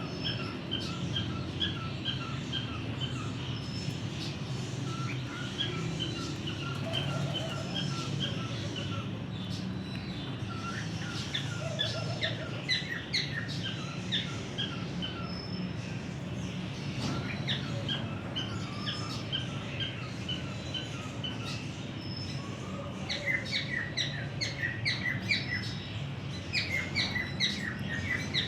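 Mixed captive birds, a cockatiel among them, chirping and tweeting in rapid runs of short high notes, growing denser and louder near the end, over a steady low hum.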